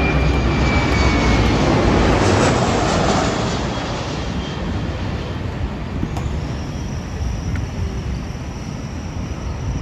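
Jet airliner passing close by on arrival, its engine noise loudest in the first three seconds and then fading to a steady low rumble. A high engine whine dies away early, and a faint high tone comes in about halfway through.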